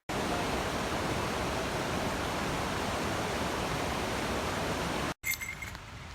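Waterfall and rushing river water making a loud, steady roar. About five seconds in, it cuts off abruptly to a much quieter background with a short, high bird chirp.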